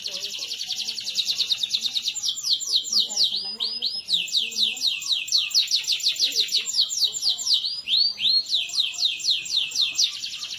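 Domestic canary singing in fast rolling trills of rapidly repeated high, down-slurred notes. The pace shifts, with a few slower swooping notes about three seconds in and again near eight seconds.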